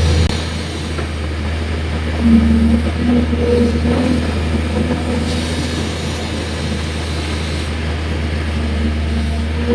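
Excavator's diesel engine running steadily with a low hum, briefly a little louder about two seconds in.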